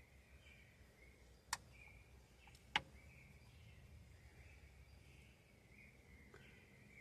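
Two sharp clicks a little over a second apart, the second one louder, over quiet background with faint steady chirping.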